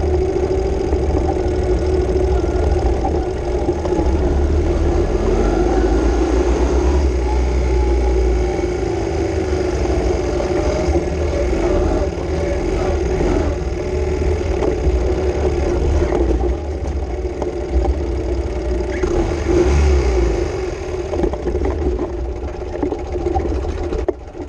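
Ural M67 flat-twin motorcycle engine running under way on a dirt track, its note rising and falling with the throttle, with heavy wind rumble on the microphone.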